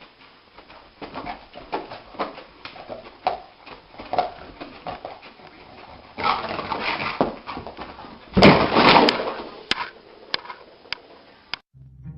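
A dog whimpering and yipping in short repeated sounds, with a louder, harsher outburst about eight seconds in.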